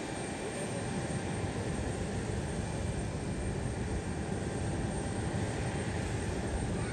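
Airplane engine noise: a steady rush with no clear rise or fall.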